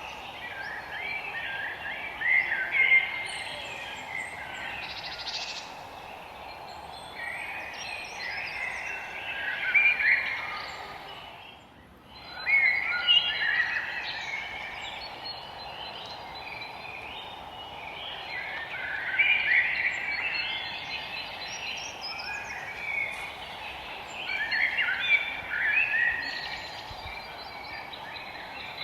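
Forest songbirds singing: bursts of quick chirping and warbling phrases every few seconds over a steady background hiss. The whole sound briefly fades out and comes back about twelve seconds in.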